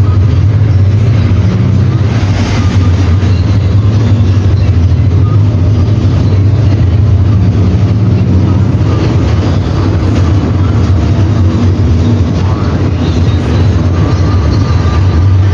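Mercedes-Benz OM-924 LA four-cylinder inline diesel engine of an OF-1721 BlueTec 5 bus running steadily, a loud, even low drone.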